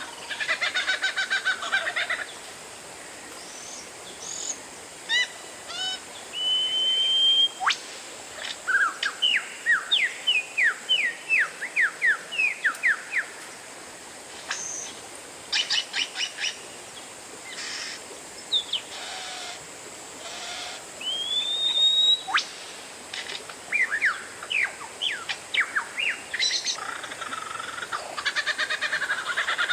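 Oriental magpie-robin singing: a varied song of clear whistles, long rising slurs and rapid runs of short down-sweeping notes, with harsh buzzy chatters at the start and near the end.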